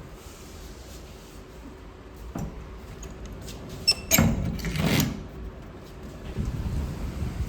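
A door being handled and opened: a sharp click a little before four seconds in, then about a second of rattling, over a low rumble of storm wind that grows louder near the end.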